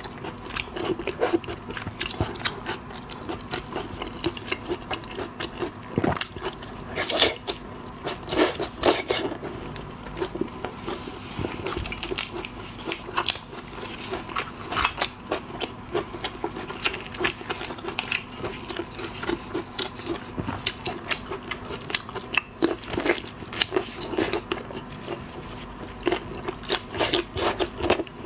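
Seafood being bitten and chewed, with frequent irregular sharp clicks and crunches of shell, over a steady low hum.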